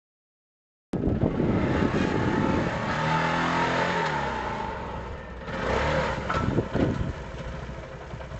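Dirt bike engine running and revving, cutting in suddenly about a second in, its pitch dropping near the middle, with clattering over it.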